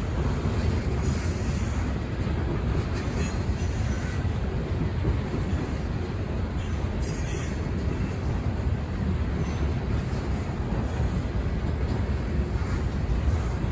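Freight train rolling past, its railcars making a steady low rumble on the track.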